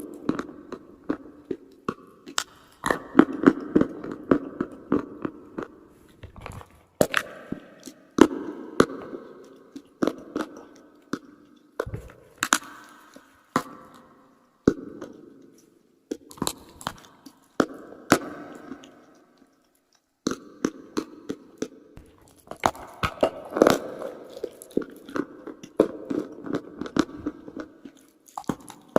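Close-miked biting and chewing of dry edible chalk and clay: many sharp crunches and snaps, with grinding chews between them and a short pause about twenty seconds in.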